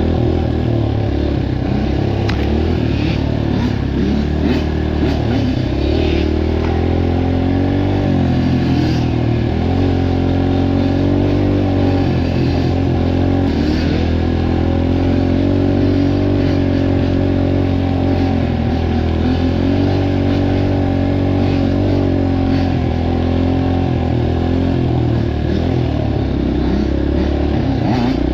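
Dirt bike engine running under way, its pitch rising and falling as the throttle opens and closes.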